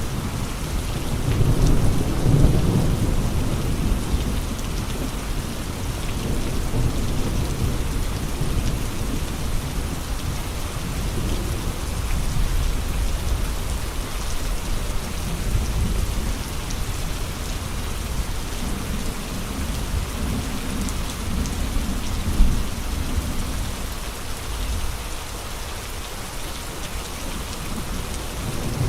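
Steady heavy rain with gusts of wind that swell into a low rumble about two seconds in and again about two-thirds of the way through, with one brief sharp sound about three-quarters of the way through.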